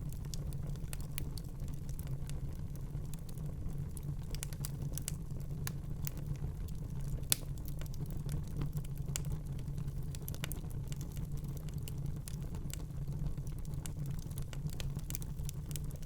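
Wood fire crackling in a fireplace: irregular small snaps and pops over a steady low rumble, with one sharper pop about seven seconds in.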